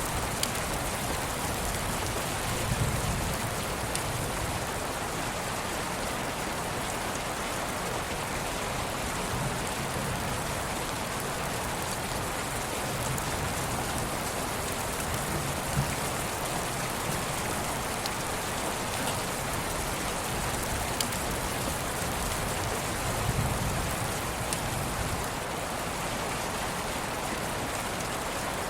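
Steady rain falling, an even hiss with scattered faint drop ticks and a few soft low rumbles.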